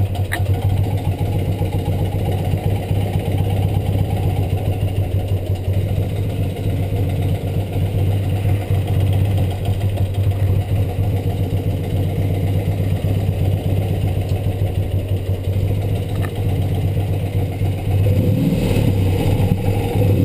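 BMW R75 air-cooled flat-twin engine idling steadily at about 1100 rpm while its carburettor is adjusted to balance the pair. Near the end the engine note rises and gets louder.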